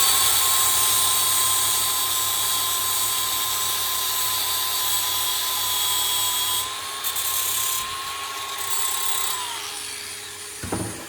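Electric drill running steadily, spinning a steel damper disc mounted on a bolt in its chuck, with a high hiss above the motor whine. About nine and a half seconds in the drill is released and spins down with falling pitch, and a short knock follows.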